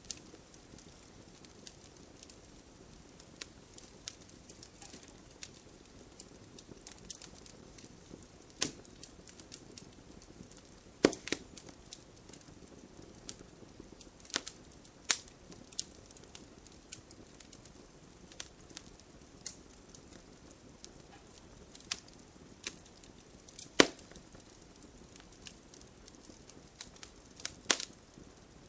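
Wood fire crackling, with scattered sharp pops over a steady soft hiss of rain; the two loudest pops come a little before the middle and late on.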